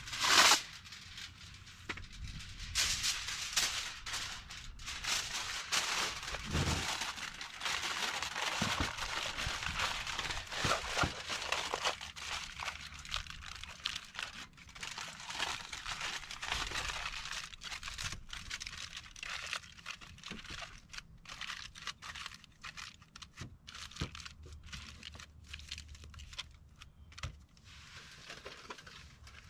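Wood campfire crackling, with many irregular sharp pops and snaps and one louder crack at the start.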